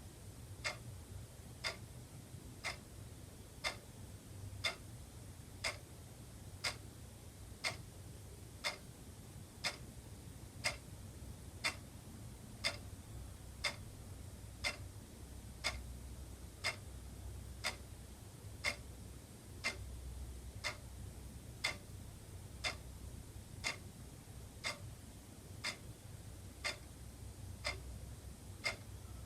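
Wall clock ticking steadily, about one tick a second, over a faint low hum.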